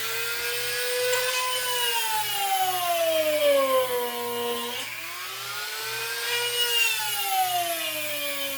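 Small electric drill boring holes in wood, its motor whine dropping in pitch as the bit loads up in the cut. The pitch jumps back up about five seconds in, then sags again through a second hole.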